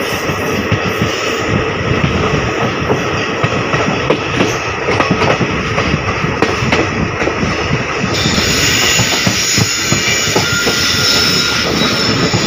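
A passenger train coach running at speed: a steady rumble and rattle with the wheels clattering over the rail joints. About eight seconds in, as the train takes a curve, a brighter hiss with faint high wheel squeal joins in.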